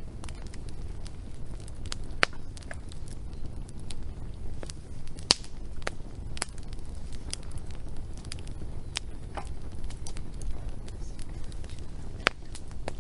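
Wood fire burning, with a steady low rumble and irregular sharp crackles and pops from the burning wood, a few of them much louder.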